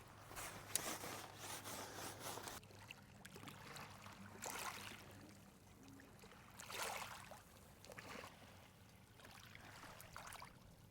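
Faint small waves washing onto the beach, a soft rush rising and falling every second or two.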